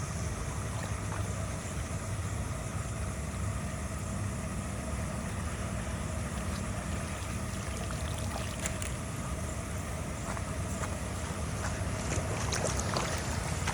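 An engine running steadily with a low hum. A few light clicks and knocks come in near the end.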